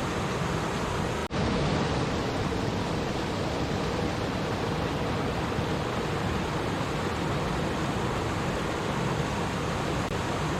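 Water stream flowing and babbling steadily, with a momentary dip in the sound about a second in.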